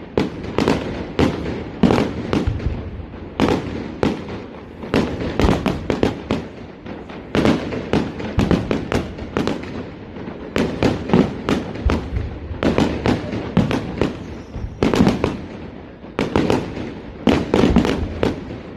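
Fireworks display going off in quick succession: a steady barrage of sharp bangs and crackles, several a second, over a low rumble.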